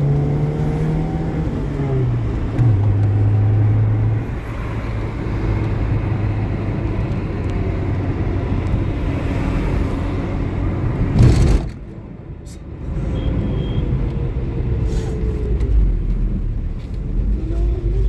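A car engine running while driving. Its low note drops in two steps about two to three seconds in. A sharp knock comes about 11 seconds in, followed by a second or so of quieter sound before the engine noise returns.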